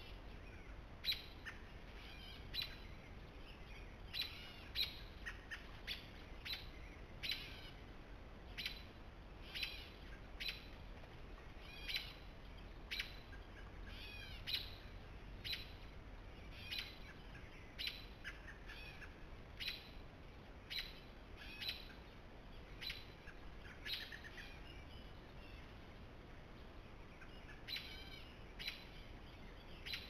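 A bird calling over and over in short, sharp notes, about one or two a second, with a pause of a few seconds about three-quarters of the way through.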